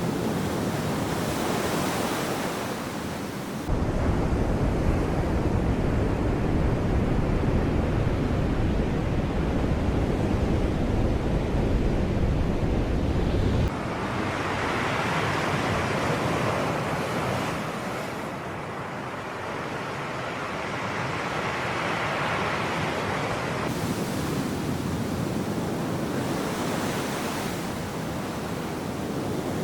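Sea waves breaking and washing ashore in swelling surges. A strong low rumble cuts in abruptly about four seconds in and stops just as abruptly about ten seconds later.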